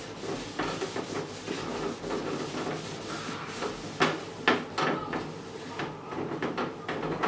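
Household objects being handled: irregular light knocks and clicks with rubbing between them, and two sharper knocks about four seconds in, like drawers or containers being moved and set down.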